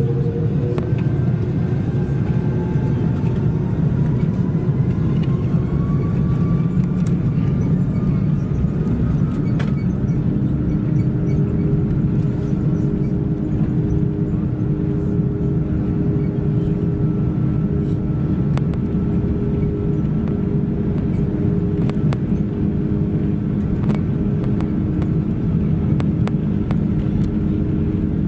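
Jet engines of an Airbus A330-300 heard from inside the cabin during takeoff: a loud, steady rumble with a whine that rises in pitch over the first ten seconds or so, then holds steady with a couple of steady hums.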